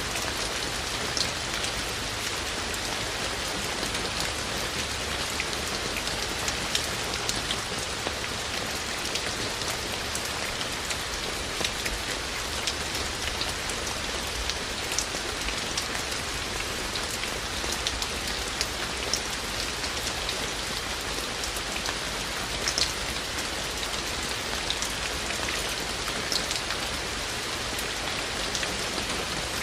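Steady rain with many distinct raindrops ticking and splashing on hard surfaces, a few louder drips standing out now and then.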